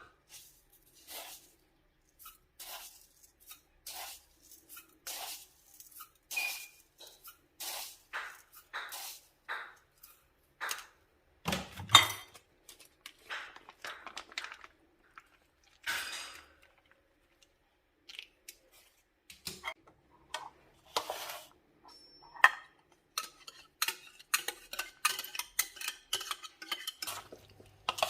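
Kitchen dishes and utensils clinking and knocking as food is prepared: short, separate knocks at irregular spacing, one louder knock about halfway through, and quicker clinking near the end.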